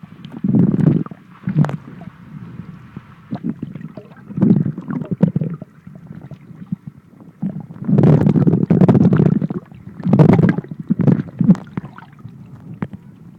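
Muffled rumbling and sloshing of sea water against a plastic waterproof pouch around the recording phone, coming in irregular surges with light crackles from the plastic. The longest surge is a little past halfway.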